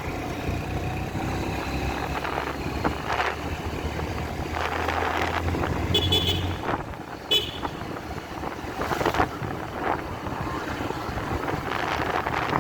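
Motorcycle engine running with road and traffic noise, and two short horn toots about six and seven seconds in; the steady engine hum drops away just after the first toot.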